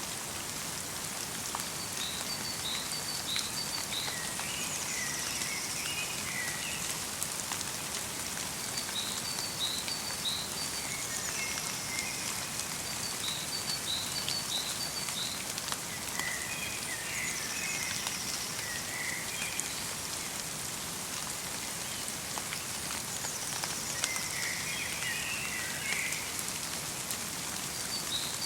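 Steady light rain falling in a forest. Over it, small birds sing short phrases every few seconds, some high and thin, some runs of quick notes, some lower chirping.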